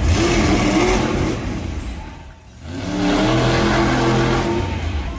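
Monster truck engine revving hard, easing off briefly about halfway through, then revving up again.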